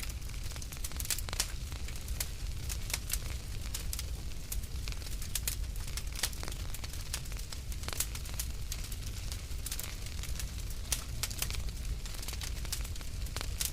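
Wood fire crackling in a fireplace: an irregular run of small sharp pops and snaps over a steady low rumble of the flames.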